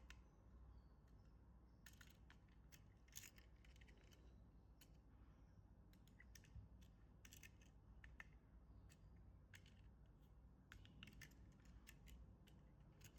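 Faint, irregular clicks and scrapes of hands unboxing a toy, handling its plastic parts and packaging.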